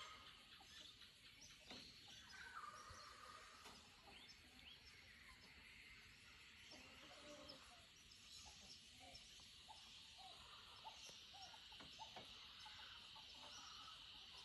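Faint outdoor birdsong: scattered short chirps and calls from several birds, with a series of short, lower call notes in the second half, over a steady high background hiss.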